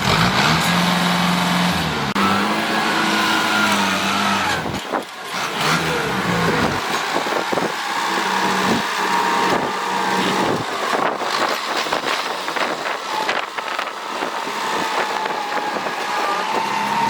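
Engine of heavy work machinery running, its pitch rising and falling as it revs, then dropping back, with repeated knocks and rattles through the rest.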